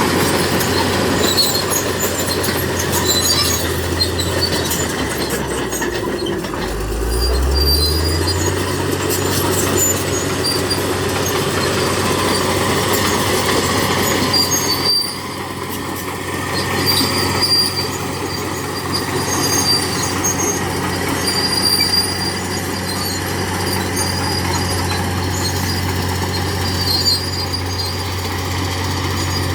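Crawler bulldozer working: its diesel engine runs steadily while the steel tracks squeal and clank. The engine note sags and recovers about seven seconds in.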